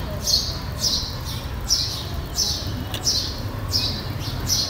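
A bird chirping over and over in a steady series of short, high chirps, about one every half second to second, over a low steady background rumble.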